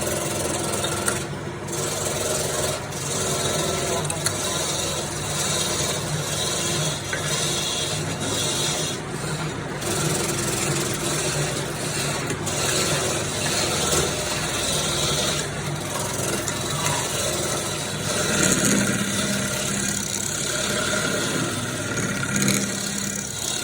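A turning tool cutting wood that spins on a lathe, continuing without a break over the lathe's running motor.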